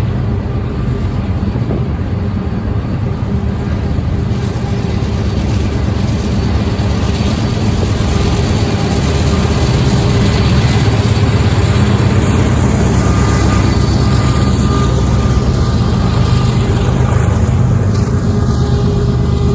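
Freight train rolling past, a loud steady rumble that builds slightly toward the middle.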